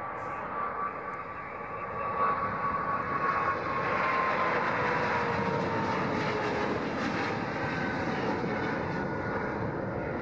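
Boeing 777-200ER's twin jet engines at takeoff power as the airliner passes by: a broad roar that swells about four seconds in, with whining engine tones falling in pitch as it goes past.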